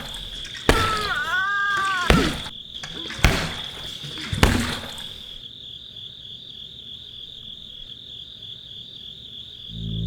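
Tea kettle whistling on a steady high note that wavers in the second half. In the first half four sharp knocks and a brief pitched cry that rises and falls sound over it; after that the whistle is left alone.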